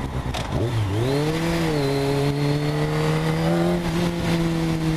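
BMW K1200S inline-four engine through its Akrapovic exhaust: the note dips in the first second, rises as the bike pulls away again, then holds steady at a constant cruise from about two seconds in.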